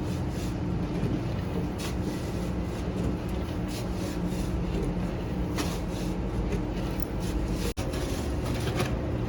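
Steady machine noise with a low hum and scattered short scraping clicks; the sound drops out for an instant near the end.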